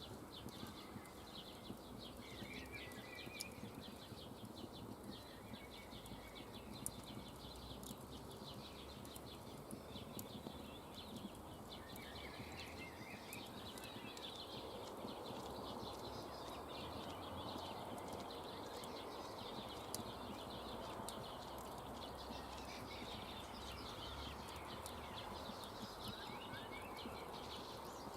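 Campfire crackling with irregular snaps and pops. Birds chirp now and then in the background.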